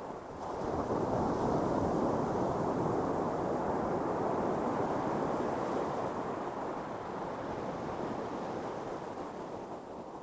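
Ocean surf on a beach: a wave breaks about half a second in, and its rush of foam and wash slowly fades away.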